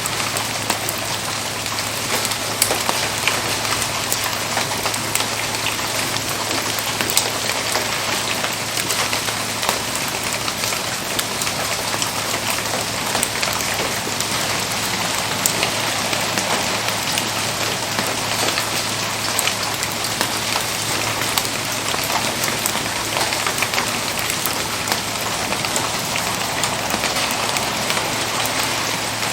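Steady rain falling, with many small sharp ticks of drops striking surfaces over an even hiss, and a faint low hum underneath.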